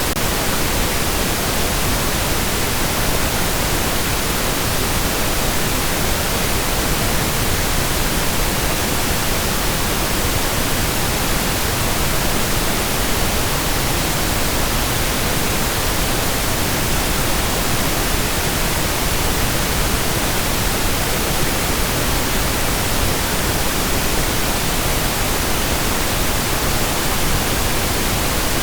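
Steady pink noise: an even, unchanging hiss spread across the whole range, fuller in the lows than white noise.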